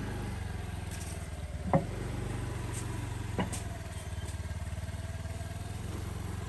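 Motorcycle engine running steadily, with a sharp knock about a second and a half in and a fainter one a couple of seconds later.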